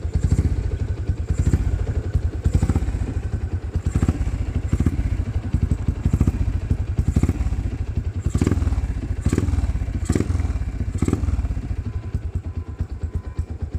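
Yamaha LC135 single-cylinder four-stroke motorcycle engine, bored up to 260cc, running at a steady idle shortly after a cold start, with a sharper pulse about once a second. It eases slightly near the end.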